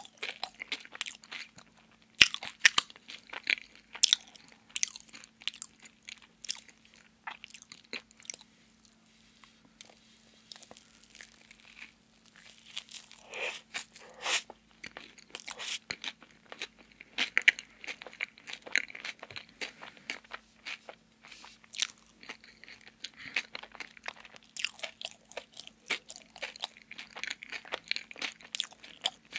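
Close-miked chewing and biting of a donut: many sharp mouth clicks and smacks with soft crunches, easing off for a few seconds around the middle.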